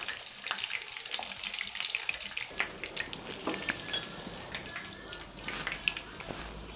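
Brinjal (eggplant) slices shallow-frying in hot oil in a pan: a steady sizzle with frequent sharp crackles and pops. The spitting comes from water left on the slices after soaking, which makes the oil splatter.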